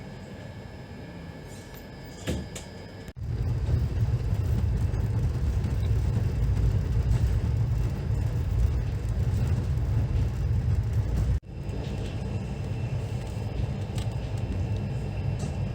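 Indian Railways passenger train running, heard as a low rumble. A few seconds in the sound jumps abruptly from a quieter steady hum to a loud rumble, and it breaks again shortly before the end.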